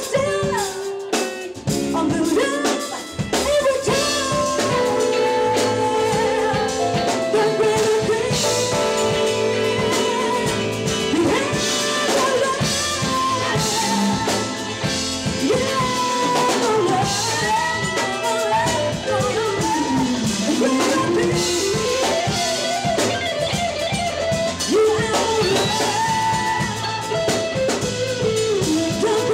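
Live jazz band playing: drum kit, bass, guitar and keyboard, with a melody line that slides and swoops in pitch, dipping low and climbing back about twenty seconds in.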